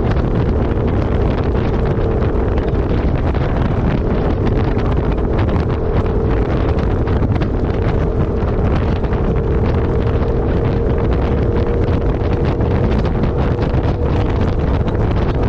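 Heavy wind buffeting the microphone over the steady drone of a 4x4 driving across the desert.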